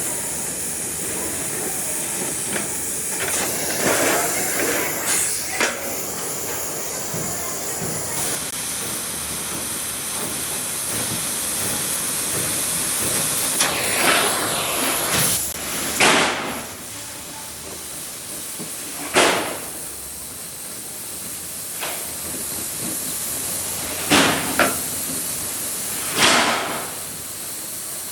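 Steady hissing noise with several sharp, loud knocks at irregular intervals, about seven in all, typical of metalwork on a truck body.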